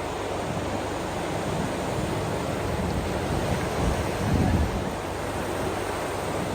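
Ocean waves washing in a steady hiss, with wind buffeting the microphone in low rumbles that swell about four seconds in.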